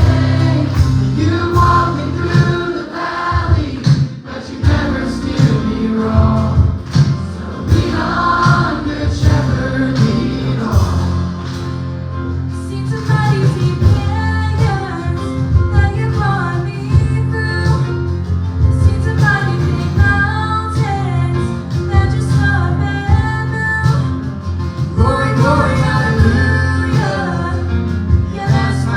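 Live gospel worship music: singers over a band, with steady sustained bass notes under the voices.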